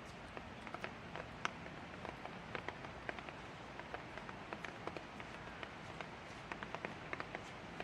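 Light rain falling steadily: a soft even hiss with many irregular sharp ticks of drops striking a nearby surface.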